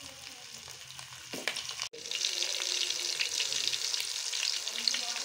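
Chicken feet, already cooked in masala, frying in hot ghee with curry leaves in an aluminium pan: a steady sizzle with dense crackling spatter. It is quieter at first and jumps louder about two seconds in.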